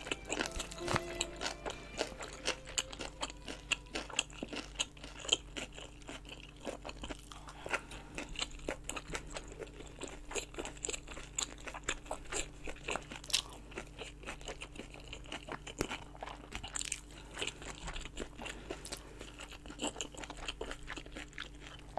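A person chewing braised kimchi rolled around pork belly: steady crunching and chewing with many short crackles and clicks.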